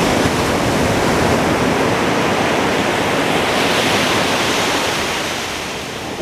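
Ocean surf washing up a beach, a continuous rush of breaking water that eases off in the last second or so as the wave recedes. Wind on the microphone adds to the rush.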